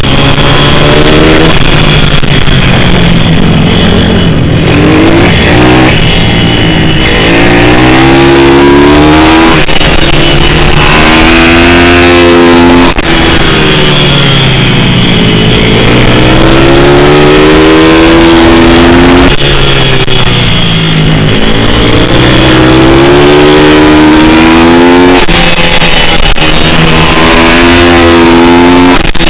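Pit bike's single-cylinder four-stroke engine at full throttle on a track, revving up and falling back again and again, about every three to five seconds, as the bike accelerates and brakes lap after lap.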